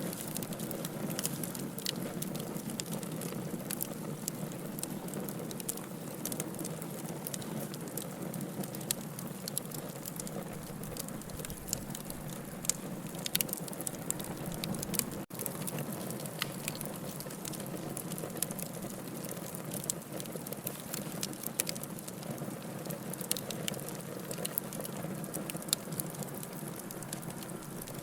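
Wood fire burning in a fireplace: a steady low rush of flame with frequent irregular crackles and sharp pops. The sound drops out for a moment about halfway through.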